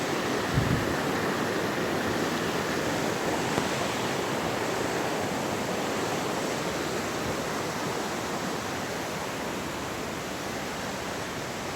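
Steady rush of fast-flowing water from a mountain river and waterfall, fading slightly toward the end, with a brief low bump about half a second in.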